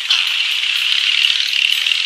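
Steady, hissing rattle, high in pitch, with no pause or change.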